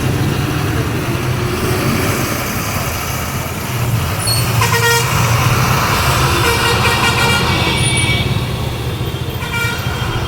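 Ashok Leyland heavy diesel vehicle running at speed with a steady low engine drone. A horn sounds briefly about halfway through, then a longer horn blast follows a couple of seconds later.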